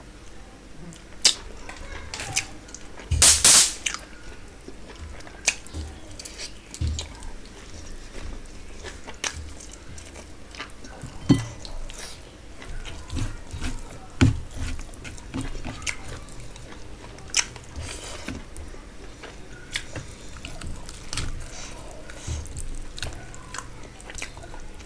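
Close-miked mouth sounds of a person chewing and eating, with irregular wet clicks and smacks and a louder noise about three seconds in. Soft squelches of fingers working saucy tandoori chicken and rice come in toward the end.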